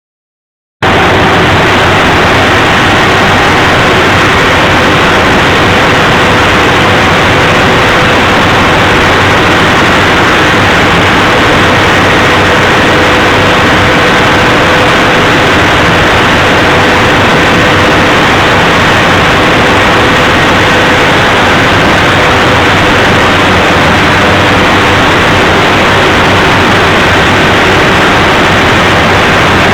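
Large diesel generator engine running at a steady speed: a loud, constant machine drone with faint steady whines over it, starting about a second in.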